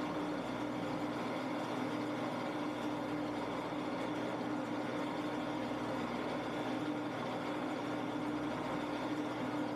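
Shopsmith running as a wood lathe, its motor giving a steady hum with a constant tone over an even hiss.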